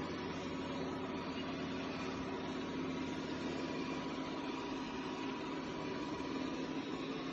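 Robot vacuum's motor running with a steady hum and a faint held whine.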